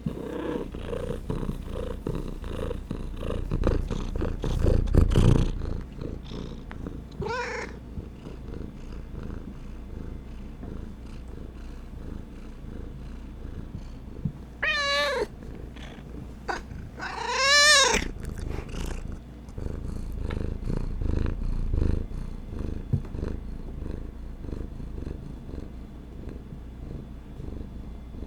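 A domestic cat purring close to the microphone, with three short meows: a brief one about a quarter of the way in, then two near the middle, the second longer and wavering. In the first few seconds there is rapid scratching and rubbing over the purr.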